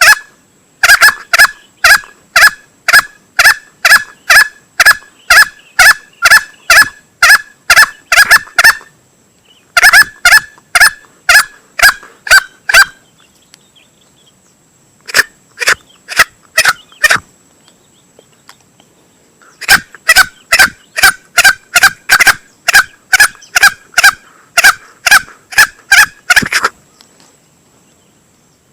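Male green junglefowl lure call: rapid series of short, sharp clucks at about two to three a second, in four bouts separated by short pauses.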